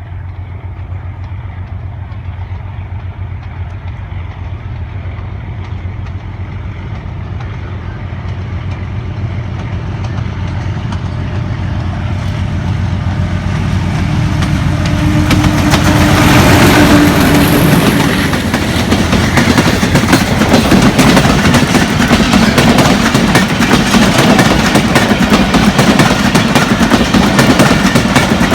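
Pakistan Railways HBU 20 diesel locomotive approaching at the head of a passenger train, its engine growing steadily louder and passing a little past halfway. It is followed by the coaches rolling by with a rapid clatter of wheels over the rails.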